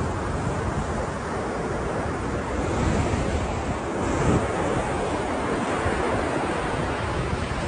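Ocean waves breaking and washing as surf, a continuous rushing that swells a little about three and four seconds in, with some low wind rumble on the microphone.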